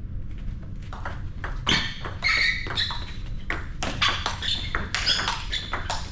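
Indoor racket-sport rally: sharp, irregular ball strikes on rackets and walls, mixed with short high squeaks of shoes on the court floor.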